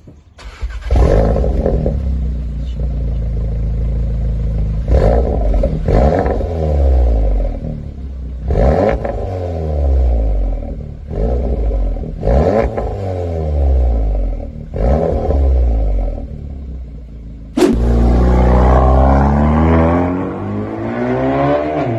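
Volkswagen Golf R Mk7's turbocharged four-cylinder, Stage 1 tuned and fitted with a Remus exhaust, being revved repeatedly from idle, the revs climbing and dropping away about six times. There is a sharp crack a few seconds before the end, then a longer rev held high before falling back.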